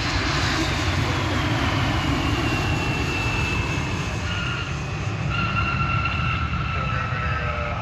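Jet airliner's engines running loud as it passes close by, a steady rumble under a high whine that drops in pitch over the first few seconds and then holds steady.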